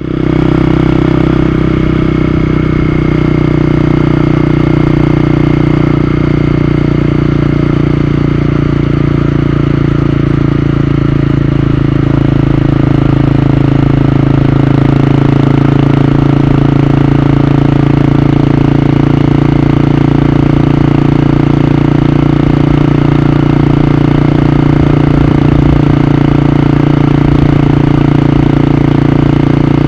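Honda CB250R's single-cylinder engine running at a steady pitch.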